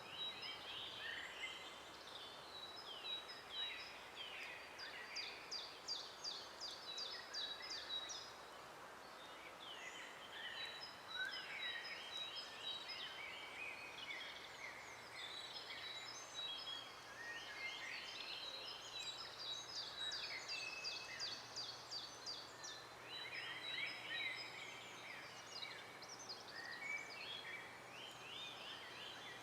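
Several songbirds singing together in a forest, their songs overlapping throughout: quick chirps and rapid trills, with one high, thin note repeated again and again. A faint steady hiss of background noise lies underneath.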